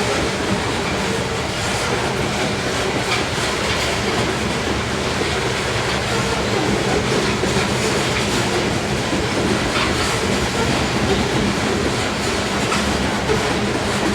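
CSX freight train rolling past, a steady rumble of wheels on rail with faint irregular clicks as the cars pass over the track.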